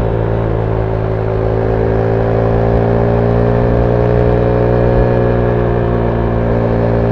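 Zontes 310V motorcycle's single-cylinder engine through its stock exhaust, heard on board while riding at a steady pace. The engine note holds nearly steady, dipping slightly about a second in and then rising gently over the next few seconds.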